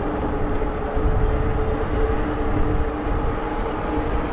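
An e-bike's electric drive motor humming steadily with a few held tones as the bike rides along. Strong wind buffeting on the action camera's microphone sets up a loud, gusty rumble under it.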